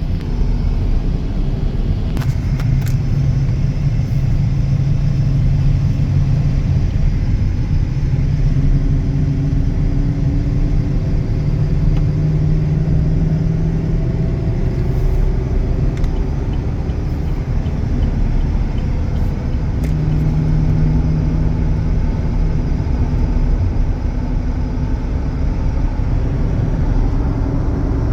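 Chevrolet Silverado 2500's 6.0-litre gasoline V8 running, a steady low rumble whose hum shifts in pitch several times.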